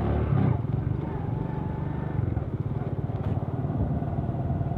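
Tractor engine running steadily with a rapid low chugging beat.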